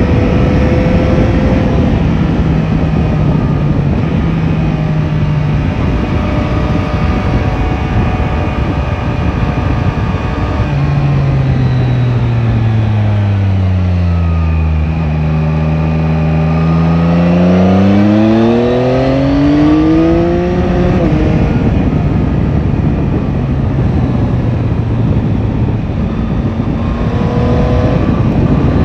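Yamaha Tracer 9 GT's three-cylinder engine under way over steady wind noise. A little before the middle the revs drop as the bike slows, then climb smoothly as it accelerates again.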